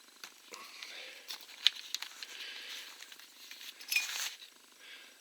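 Small clicks, clinks and rubbing from handling chainsaw parts while the oil tube is worked off the oil pump, with one sharper click a little under two seconds in and a brief louder rub about four seconds in.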